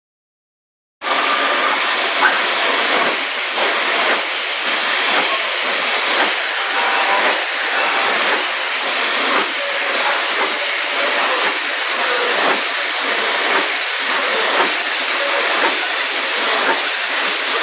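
FOOMA HAB-300 automatic meat band saw running: a loud, steady hissing machine noise with a regular pulse about twice a second. It starts abruptly about a second in.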